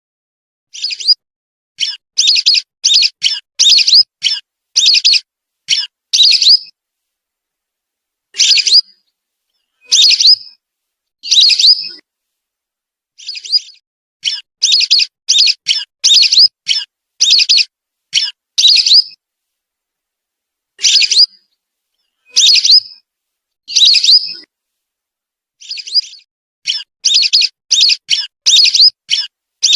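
Whistling duck (belibis) calls played as a lure recording: short, high whistled notes in quick runs of several a second, broken by brief silent gaps.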